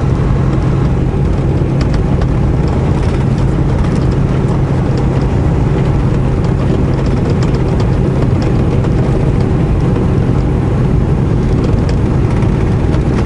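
Semi truck's diesel engine running steadily under way, with a constant low drone and tyre and road noise, heard from inside the cab.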